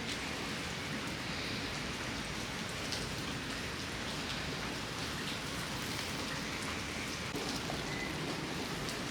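Steady rain falling, a constant hiss with scattered individual drops ticking on nearby surfaces.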